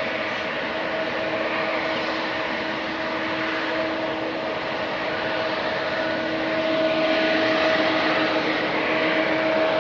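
Boeing 777-200ER airliner's jet engines running steadily: an even rushing noise with a steady low hum and a higher steady tone, getting a little louder about seven seconds in.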